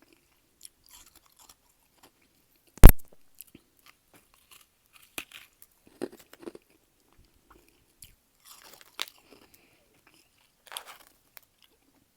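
Close-miked chewing and biting of soft, powdery freezer frost: scattered crunches, with one much louder sharp crack about three seconds in.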